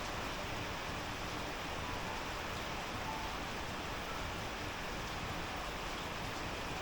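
Steady rain falling, an even hiss without pauses or drops standing out.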